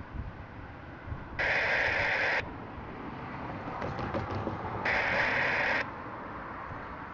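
Scanner radio on the railroad dispatcher's channel giving two bursts of static hiss, each about a second long and cut off suddenly, as a transmission is keyed with no voice on it.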